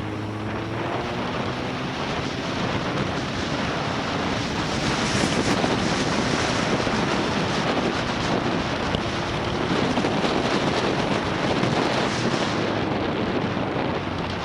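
Motorcycle on the move, its engine note heard in the first few seconds under heavy wind rush on the microphone. The wind noise grows louder about five seconds in as the bike gathers speed.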